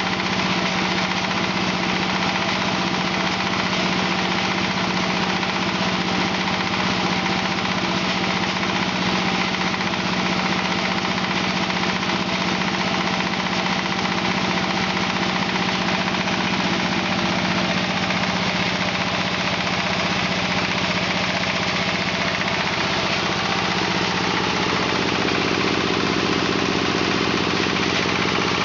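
Diesel engine driving a wood hammer mill, running steadily with a constant hum and a rattling, noisy spread on top; the pitch of its middle tones shifts slightly partway through.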